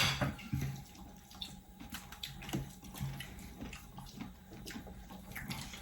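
Quiet eating sounds at a meal of crab and prawns eaten by hand: scattered small clicks of shells and dishes, with wet sucking and chewing.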